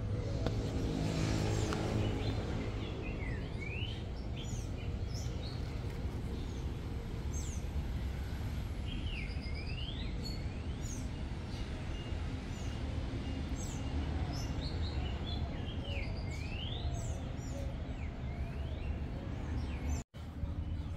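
Small birds chirping: repeated short calls sweeping up and down in pitch, over a steady low rumble of background noise. The sound drops out for a moment near the end.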